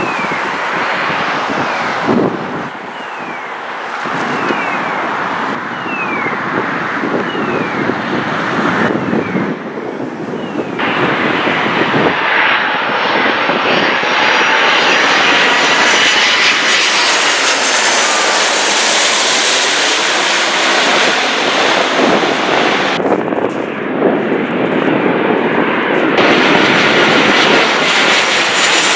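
Jet airliner engines passing close, a loud steady rush with a high whine that rises and shifts in pitch through the second half. The sound changes abruptly several times.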